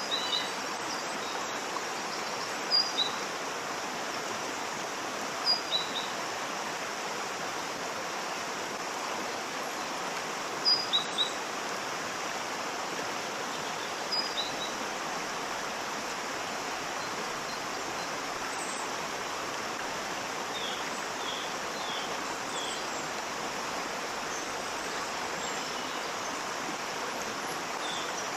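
Waterfall water rushing steadily, with short bird chirps over it. A few chirps come in quick pairs and triples, standing out loudest about three, six, eleven and fourteen seconds in, then softer chirps later.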